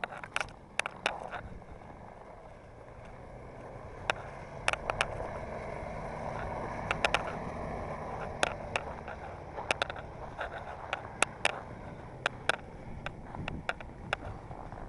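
A mini truck driving, its engine and road noise running steadily and growing somewhat louder from about five seconds in. Sharp clicks and cracks sound irregularly throughout.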